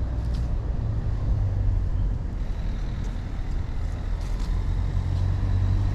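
Kawasaki Versys motorcycle engine running steadily at low revs, a low hum over road and wind noise that grows a little louder near the end.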